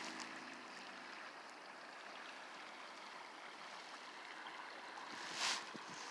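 Faint, steady wash of moving water around a kayak, with one louder splash about five seconds in, typical of a paddle stroke entering the water.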